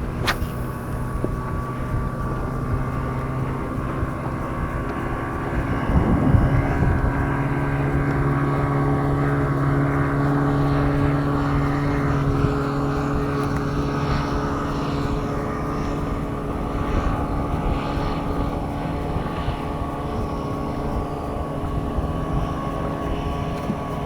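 A motor droning steadily at a constant low pitch, growing louder about six seconds in and then easing slightly.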